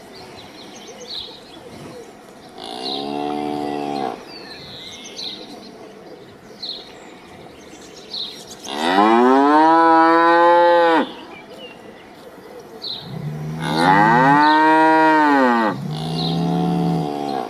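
Cow mooing four times in long, drawn-out calls, each rising and then falling in pitch; the second, in the middle, is the loudest and the last two follow almost back to back. Faint short high chirps sound in the background.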